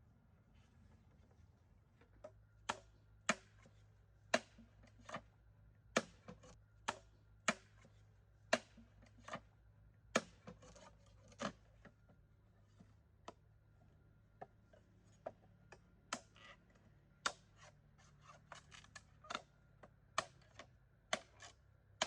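An irregular series of sharp knocks, about one to two a second, starting about two seconds in: hand-tool strikes on wood or bamboo.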